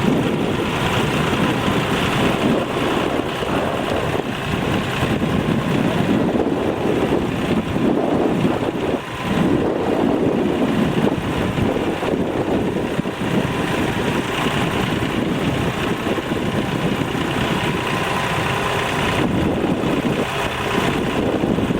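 A tractor engine running, with wind rumbling on the microphone.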